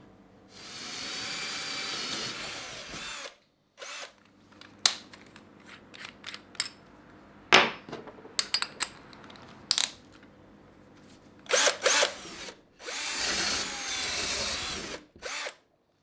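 A small power drill running in two spells of a few seconds, likely boring into a branch. Sharp clicks and knocks of handling come between the spells.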